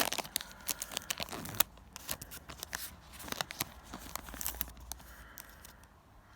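A Yu-Gi-Oh booster pack's foil wrapper being torn open, loudest right at the start, followed by a run of crinkling and crackling that fades out after about five seconds.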